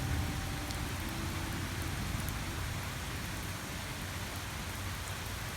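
Steady rain falling during a thunderstorm, an even hiss of drops with no thunder clap.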